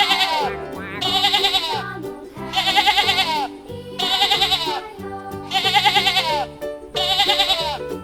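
Repeated bleating calls, about six in a row, one every second and a half, each a short wavering cry, over backing music with a steady bass line.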